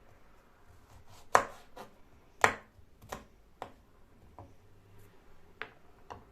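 Knife coming down on a cutting board in a few uneven chops. The two loudest strikes come about a second apart near the start, followed by fainter, scattered knocks.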